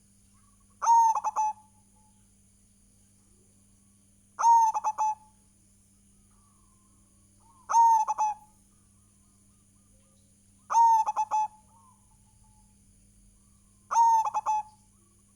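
Zebra dove (perkutut) cooing: five short phrases of quick notes, one about every three seconds.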